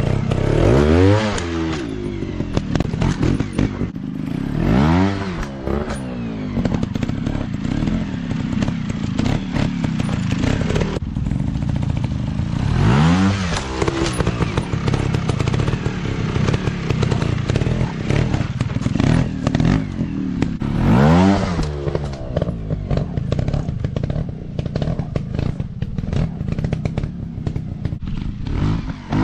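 Dirt bike engines running, a steady drone with the pitch surging up and back down four times as a bike revs hard and eases off.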